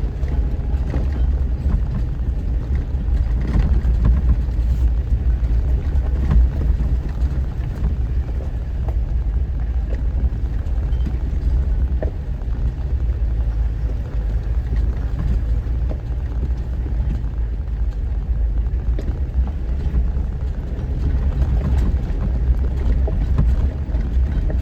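Off-road vehicle driving a rough mountain trail: a steady low engine and drivetrain rumble with scattered light knocks and rattles.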